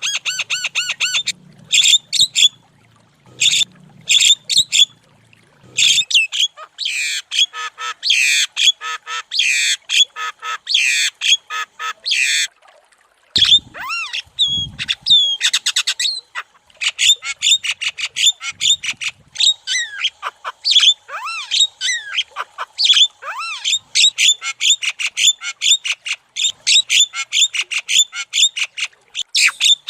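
Javan myna (jalak kebo) calling in a rapid, continuous string of chattering squawks and sweeping whistled notes, with a short break about thirteen seconds in.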